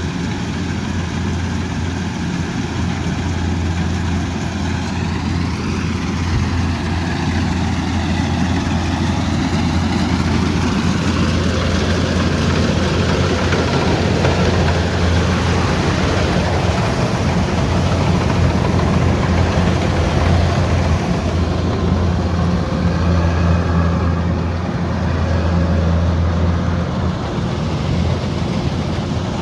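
A combine harvester's engine runs steadily under load, with the whir and rattle of its harvesting machinery over a constant low hum.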